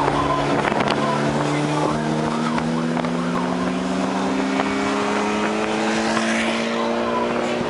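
Porsche 911 Carrera 4's flat-six engine pulling hard at full throttle in one gear, its pitch climbing slowly and steadily without a shift, heard from inside the car over wind and road noise.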